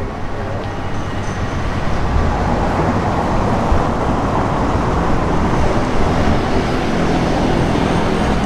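Street traffic noise: a steady rumble of road vehicles that grows slowly louder, with no distinct events.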